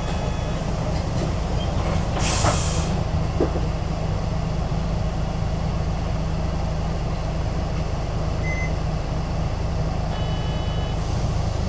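Interior sound of a PJ-KV234L1 (Isuzu Erga) city bus: the diesel engine runs steadily throughout. About two seconds in there is a short hiss of air from the bus's air system. Short electronic beeps sound at the start and again near the end.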